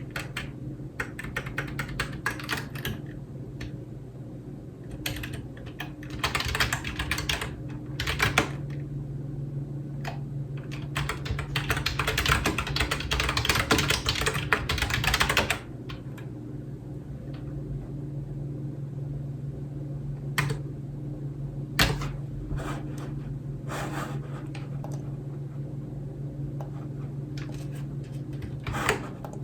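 Typing on a computer keyboard: fast, dense runs of keystrokes through the first half, then slowing to scattered single key presses from about halfway on. A steady low hum runs underneath.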